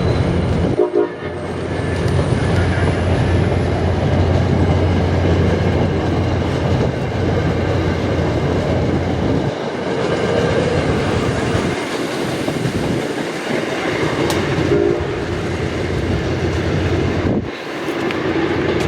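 A train rolling past close by, a loud continuous rumble and rattle of wheels on rail. The deep low rumble in the first half thins out about halfway through.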